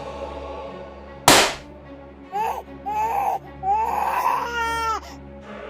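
A single loud sharp crack about a second in, then a high voice crying in several wavering sobs, over background music.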